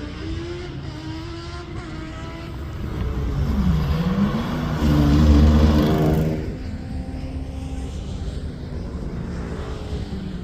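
Rally car engine passing on track. The engine note drops as it lifts off, then climbs again under acceleration. It is loudest about five seconds in, then fades as the car moves away.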